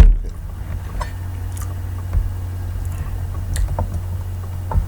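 A few small clicks and soft eating noises, such as a fork on a plate or chewing, over a steady low electrical hum.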